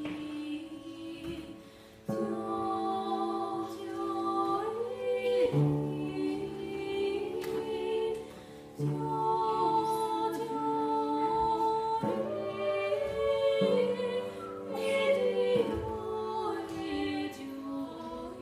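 Two voices singing a slow folk song in harmony, with long held notes and brief pauses between phrases.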